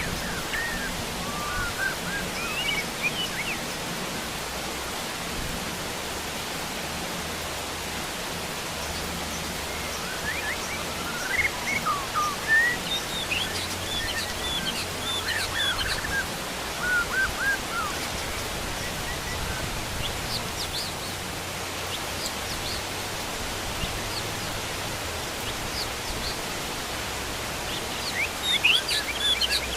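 Heavy rain falling steadily on bamboo and a fish pond, with wild birds chirping in short bursts, in clusters about a third of the way in and again near the end.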